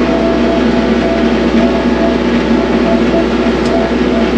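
TYM compact tractor's diesel engine running steadily at working speed, a loud even drone.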